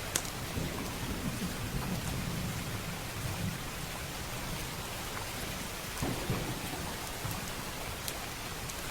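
Steady heavy rain with a low rolling thunder rumble through the first few seconds, and a few sharp fireplace crackles on top.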